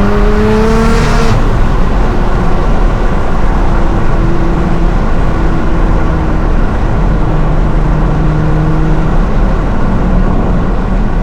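Nissan R35 GT-R's twin-turbo V6 pulling under throttle with rising revs and a hissy intake rush, then lifting off about a second in: the hiss cuts off suddenly and the engine settles into a steady low exhaust drone while cruising.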